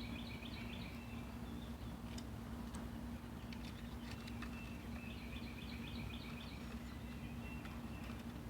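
A rhythmic chirping call repeated in quick, even pulses, heard at the start and again from about four to seven seconds in, over a steady low hum, with a few light clicks.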